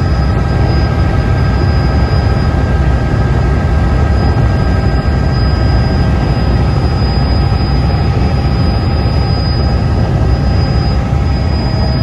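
Tour helicopter heard from inside the cabin: a loud, steady drone of rotor and engine with a thin high whine on top, holding even throughout.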